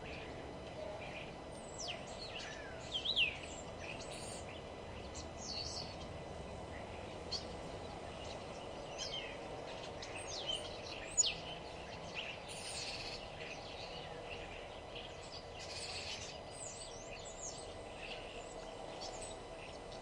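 Several birds singing and chirping: many short calls and quick falling whistles, one after another, over a steady background hum.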